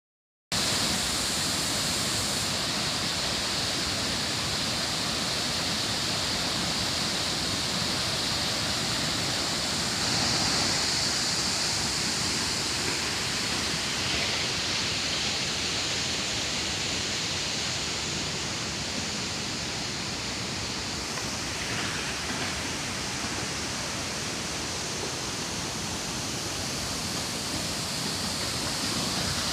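Waterfall: the steady, unbroken rush of water falling and crashing.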